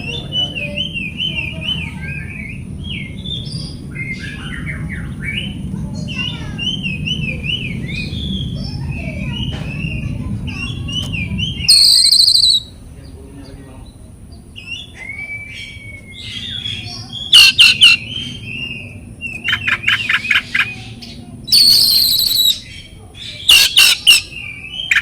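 Oriental magpie-robin (kacer) singing: a fast, varied run of twittering, zig-zag notes over a low hum. A loud harsh screech comes about twelve seconds in. From about seventeen seconds there are several loud, rapid rattling bursts, with another harsh screech between them.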